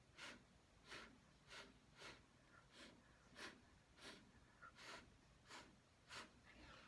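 Faint, short puffs of breath, about ten of them, one every half second or more, blowing wet acrylic paint across the canvas.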